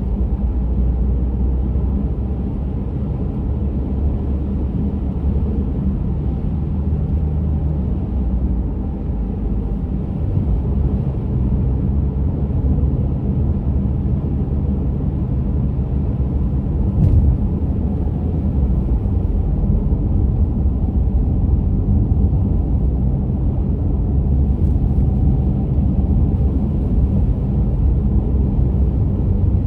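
Car driving at steady speed: a constant low rumble of engine and tyre noise, with a single short click partway through.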